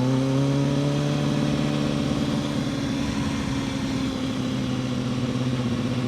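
Kawasaki ZX-6R's inline-four engine pulling in second gear, its pitch rising through about the first second and then holding steady.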